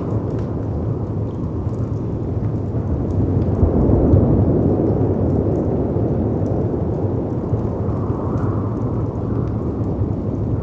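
Layered storm ambience: a steady low rush of wind and breaking sea waves that swells about four seconds in, with faint scattered crackles of a fireplace.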